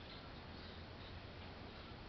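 Faint steady background hiss and low hum, with no distinct sound standing out.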